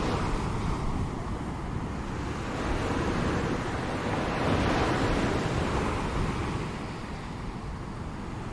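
Ocean waves washing ashore, the surf swelling and ebbing in slow surges, one wave building and breaking about four to five seconds in.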